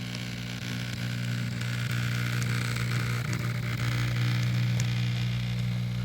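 Model train locomotive running along the track: a steady electric motor drone with a hissing whir of wheels and gearing.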